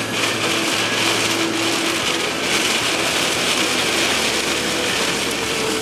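A car driving in rain, heard from inside: a steady hiss of rain and wet road, with a faint low engine hum under it.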